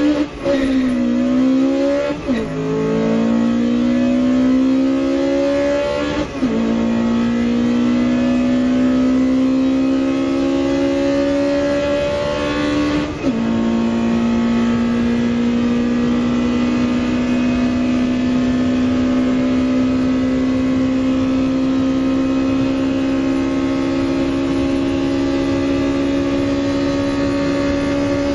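Honda Integra DC2's 1.8-litre B18C VTEC four-cylinder engine at full throttle, revving toward its roughly 9,000 rpm redline in each gear. The pitch rises steadily and drops sharply at upshifts about 2, 6 and 13 seconds in, then climbs slowly in top gear at high speed. Heard from inside the cabin.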